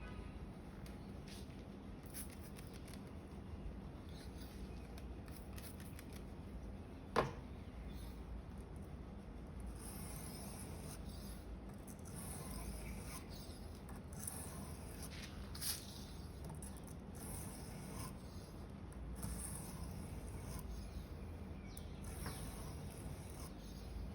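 A Victorinox paring knife's steel blade being stroked across a 3000-grit whetstone: faint scraping strokes, with one sharp click about seven seconds in.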